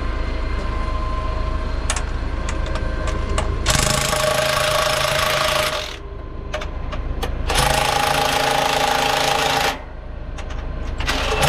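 An impact wrench hammering lug nuts three times in bursts of about two seconds, drawing the solid rubber wheel in onto the CAT 972 wheel loader's hub. A steady low engine rumble with some clicks runs under the first few seconds.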